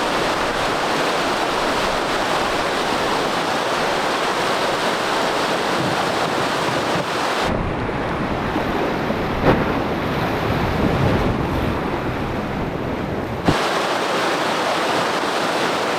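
Rushing whitewater of a river rapid, a steady loud wash, with a deeper rumble through the middle part and a single knock about halfway through.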